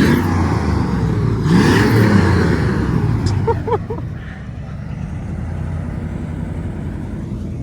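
Car engine revved twice, the pitch climbing and falling each time over the first three seconds, then running at a steady idle.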